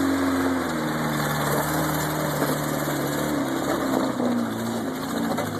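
A vehicle engine idling steadily, its pitch wavering slightly, over a steady hiss.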